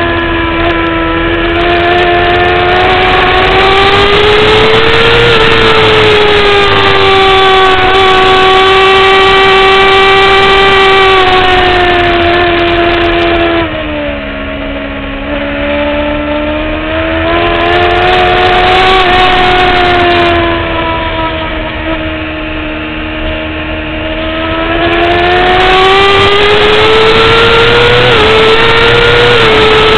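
2009 Kawasaki ZX-6R's inline-four engine at high revs on track, pitch climbing under throttle. Twice, about halfway through and again about two thirds in, the engine note drops lower and quieter off the throttle, then rises again as the bike drives out.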